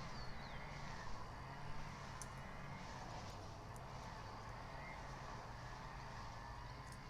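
Steady low rumble, like distant traffic, with faint bird calls over it.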